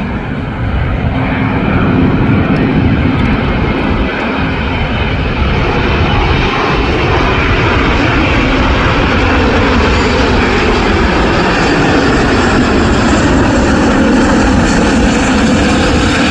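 Airliner passing low overhead on final approach: loud, steady engine noise that builds over the first couple of seconds and then holds.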